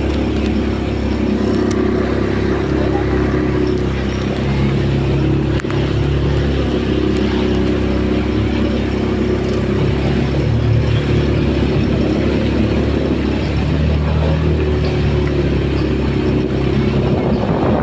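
Motorboat engine running steadily under way: a constant loud drone that holds its pitch, with only slight shifts.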